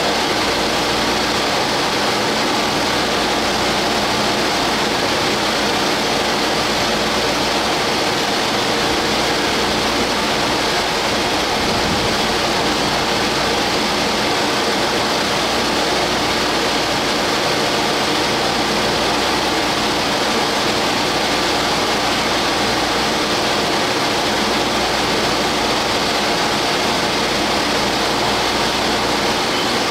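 Steady hum and hiss of a standing 413 and 455 series electric train's onboard equipment running, with no change in level.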